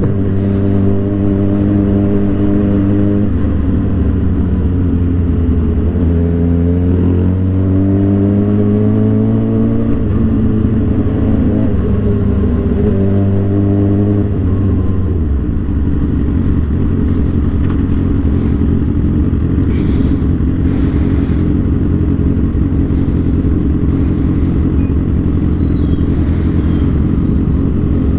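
2007 Suzuki GSX-R 750's inline-four engine running under way: the revs hold, dip, then climb for several seconds and hold again, before falling away about halfway through to a lower, rougher steady note.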